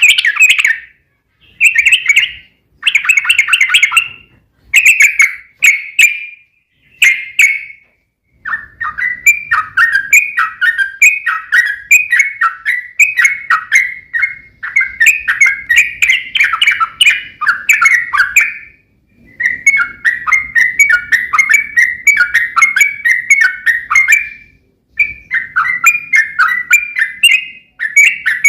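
Yellow-vented bulbul (trucukan) singing. It gives a few short bursts of bubbly notes in the first eight seconds, then long, rapid runs of repeated downward-slurred notes broken by two brief pauses. This is the long continuous 'ropel' song.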